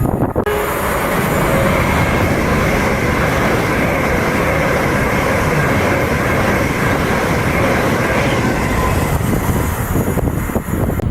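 A train passing through the station: a loud, steady rush of wheels on rail and air that eases slightly near the end.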